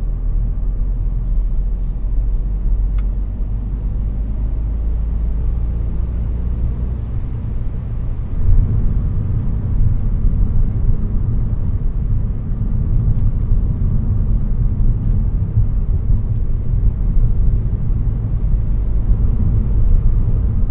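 Peugeot 308's 1.6 BlueHDi four-cylinder turbodiesel engine and tyre noise while driving, a steady low rumble that shifts in pitch and gets a little louder about eight seconds in.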